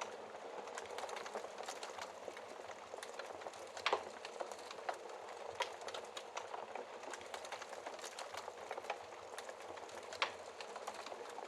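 Wood fire in a fireplace crackling steadily, with a soft hiss and frequent sharp pops; the loudest pop comes about four seconds in, another near ten seconds.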